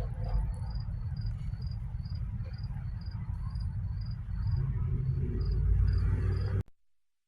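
Crickets chirping steadily, about two to three chirps a second, over a low rumble. The sound cuts off suddenly near the end.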